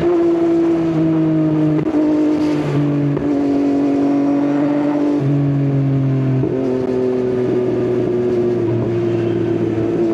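Yamaha XSR900's inline three-cylinder engine through an Akrapovič exhaust, heard from the rider's seat while riding: a steady engine note that steps up and down in pitch several times as the revs change.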